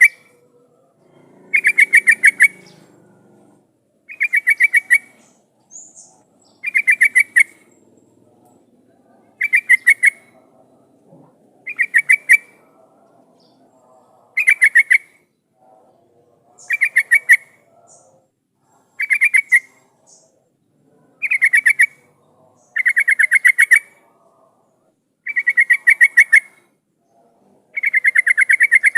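Yellow-vented bulbul (trucukan) calling: about a dozen short bursts of rapid chattering notes, one every two seconds or so. This is a lure recording meant to set other trucukan answering.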